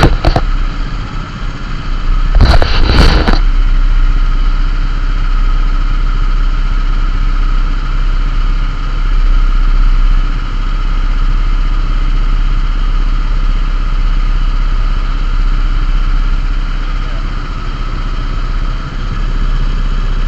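A vehicle engine idling steadily, with a loud, brief burst about two and a half seconds in.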